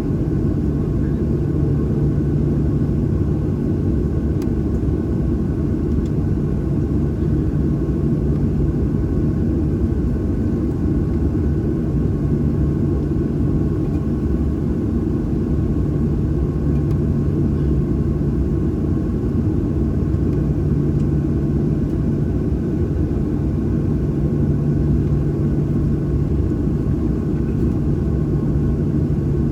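Boeing 737-800's CFM56-7B engines idling, heard inside the cabin as a steady low rumble with a low hum that swells and fades every several seconds.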